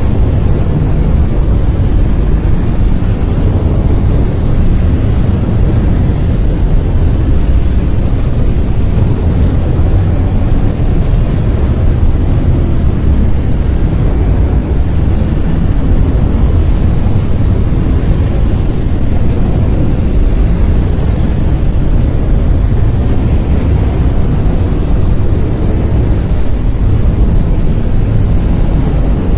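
Brown noise: a steady, loud, deep rumbling hiss with most of its energy in the low end and no changes or events.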